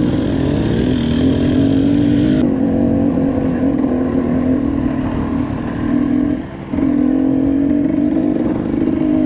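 Enduro motorcycle engine running steadily under way, dipping briefly about six and a half seconds in before picking up again.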